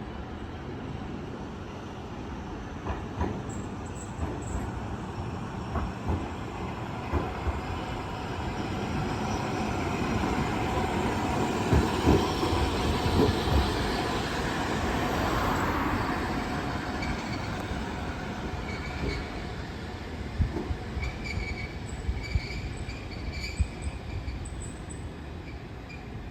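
Iyotetsu Moha 2000 streetcar, ex-Kyoto City Tram 2003, passing by on street track. Its running noise swells to a peak about halfway through and then fades away, with scattered knocks from the wheels and brief high wheel squeals near the end.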